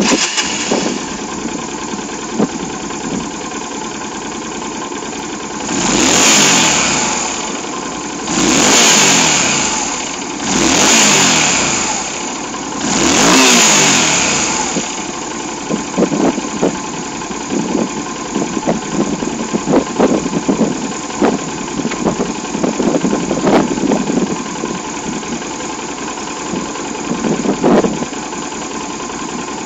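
Yamaha DragStar 250's air-cooled V-twin engine idling, revved four times in a row, each rev rising and falling back, about six to fourteen seconds in. After that it returns to idle, with a run of short, sharp, uneven spikes over the steady note.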